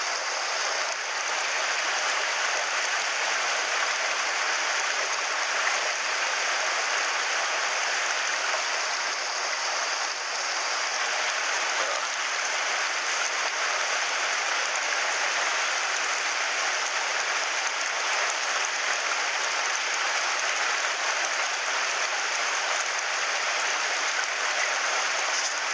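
Mountain stream rushing through a noisy stretch of rapids: a steady, unbroken hiss of water.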